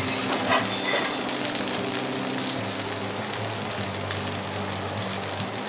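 Oiled dosa frying in a hot pan, a steady sizzling hiss, with a low steady hum underneath.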